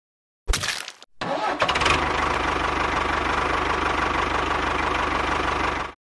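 An engine starts and runs at a steady speed with a fast, even low pulse, then cuts off abruptly near the end. A sharp, crack-like burst comes just before it starts.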